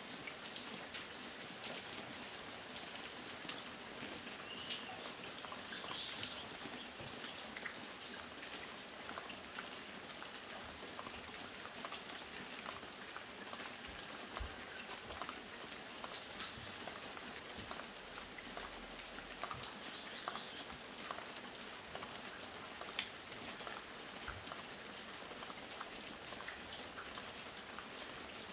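Light, steady rain with many small drops pattering and dripping, likely from a roof edge. A few brief high chirps, likely from a bird, come through the rain about three times.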